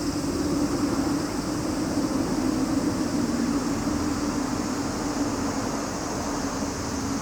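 A steady chorus of cicadas forms a continuous high drone. Under it a louder, steady low hum, like a distant engine or machine, eases off near the end.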